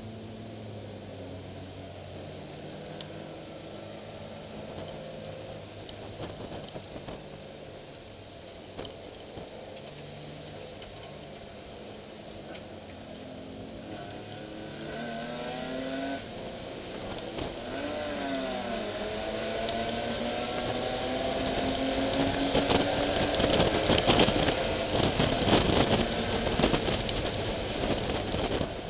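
A 1987 BMW E30 325iS's M20 inline-six heard from inside the car while racing: it runs steadily for a while, then its pitch rises and falls twice before climbing in one long rev under hard throttle. The engine grows louder towards the end, with a loud rush of wind and road noise over it.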